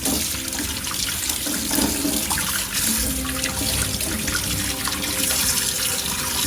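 Fresh water running and splashing steadily, used to rinse salt water off surf gear.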